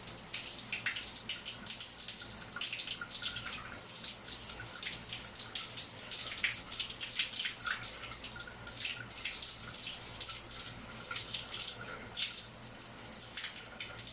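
Water running from a newly installed shower valve under test, with irregular splashing throughout.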